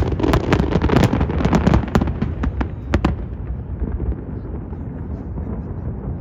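Fireworks bursting in a rapid barrage of sharp bangs and crackles for about three seconds, then dying down to a low rumble with the odd faint pop.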